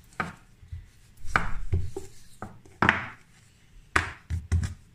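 Brioche dough being rolled out and worked by hand on a board: about five separate rubbing knocks, with quiet between them.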